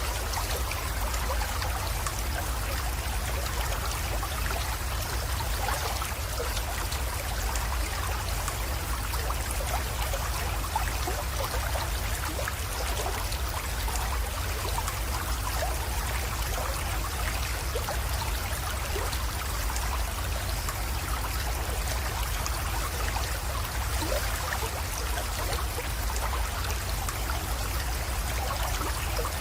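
A small creek trickling and splashing steadily, with many small drips and splashes over an even run of water and a low steady rumble underneath.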